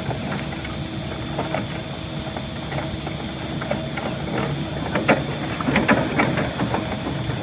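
Simex CBE 30 crusher bucket on a 22-ton excavator crushing sandstone: the excavator's diesel engine runs steadily under irregular sharp cracks and crunches of breaking rock, which come thickest and loudest about five to six seconds in.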